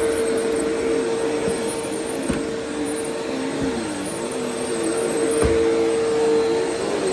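Vacuum cleaner running steadily with a constant motor whine, a lower hum wavering under it, and a couple of short knocks.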